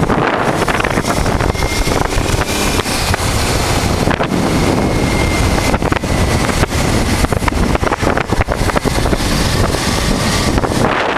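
Motorcycle ride on a 1988 Honda Transalp: its V-twin engine running at road speed, buried under loud wind buffeting on the microphone.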